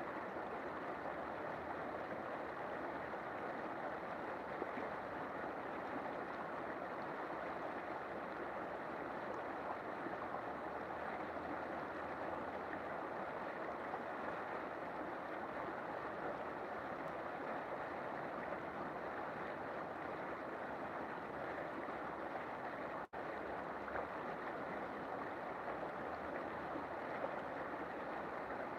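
River water flowing in a steady, even rush, with a split-second break about two-thirds of the way through.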